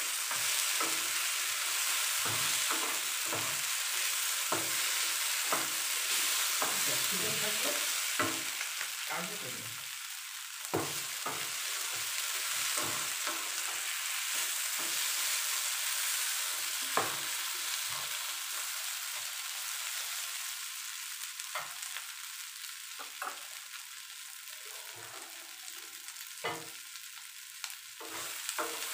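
Chicken pieces sizzling as they stir-fry in very little oil in a nonstick frying pan, with a wooden spatula scraping and knocking against the pan at irregular moments. The sizzle and stirring grow quieter in the second half.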